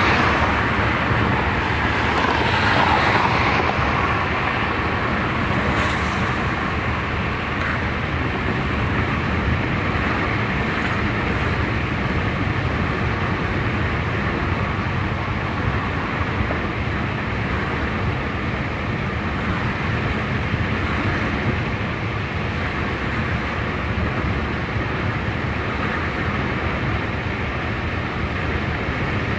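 A car driving along a road: steady tyre and road noise with engine hum, a little louder in the first few seconds.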